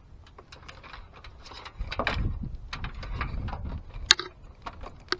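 Hands handling ignition wiring and parts: rustling with scattered small clicks and knocks, growing louder about two seconds in, and one sharp click about four seconds in.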